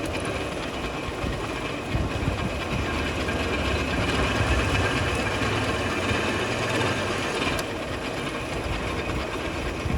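Workshop machinery running steadily: a continuous mechanical hum with a faint high whine, shifting slightly in tone near the end.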